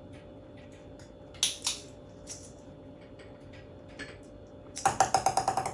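Light clicks and taps of a plastic toy ball being handled by an African grey parrot on a tabletop: a few separate knocks, then a quick rattling run of clicks near the end.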